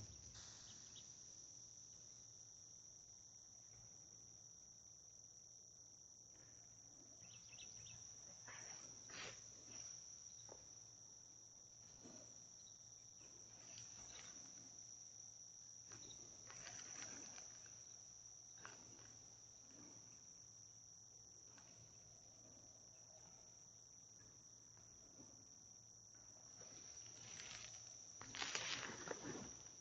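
Faint, steady, high-pitched chorus of crickets chirring, with a few brief swells of noise, the loudest near the end.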